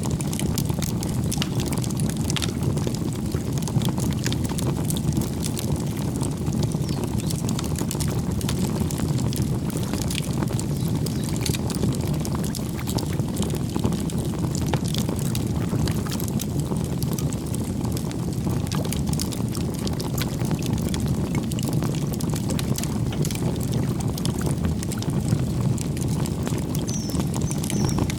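Campfire burning: a steady low rush of flame with frequent sharp crackles and pops from the burning wood. A brief, faint bird chirp near the end.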